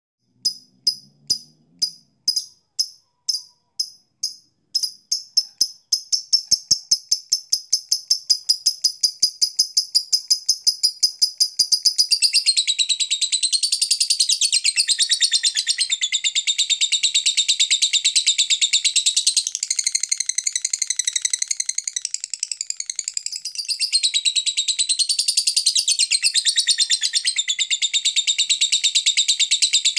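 Lovebird calling: separate high chirps that quicken into a rapid string, then break into a long unbroken trill about twelve seconds in. It is the kind of call used to set other lovebirds singing.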